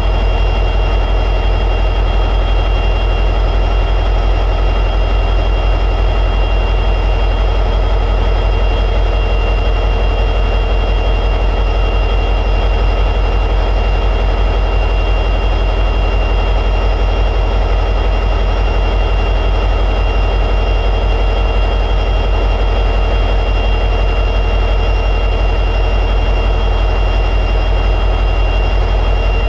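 EMD 710G3B two-stroke diesel prime mover of an SD60E locomotive running steadily at high idle, a deep constant drone with a thin steady whine above it.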